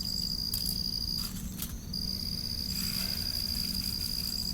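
Crickets chirping in a steady high-pitched trill that stops for a moment about a second and a half in, over a low background rumble, with a few light handling clicks.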